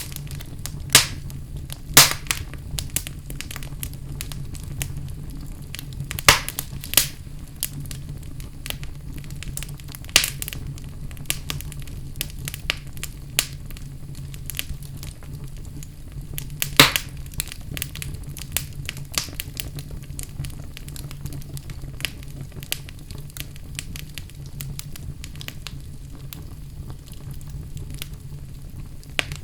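Wood fire burning in a fireplace, crackling continuously with sharp pops; the loudest are about 2, 6 and 17 seconds in. Under the crackle runs a low steady rumble of the flames.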